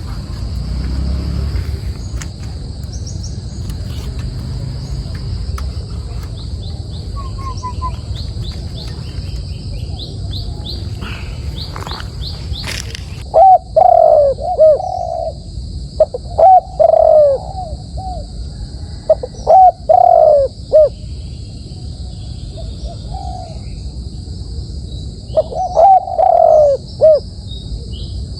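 A decoy dove cooing close to the microphone in four loud groups of low, repeated coos in the second half. A few faint high chirps from small birds come earlier, over a steady high-pitched hiss.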